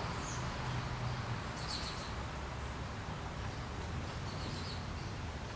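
Two brief bursts of faint bird chirps, about two seconds apart, over a steady low background rumble.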